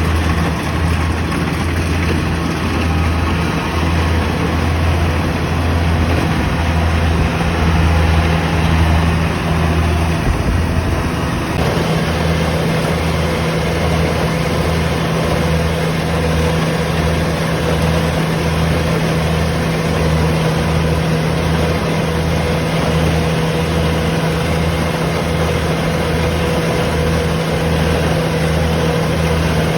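Combine harvester's engine running steadily, a low hum with a regular throb. A little over a third of the way in, a steady higher hum joins.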